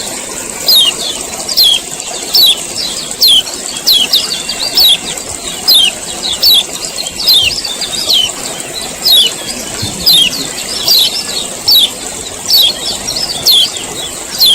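Male kecial kuning, a yellow white-eye, giving its sharp 'ciak ciak' call over and over: short high notes that drop in pitch, about two a second. A steady high hiss runs underneath.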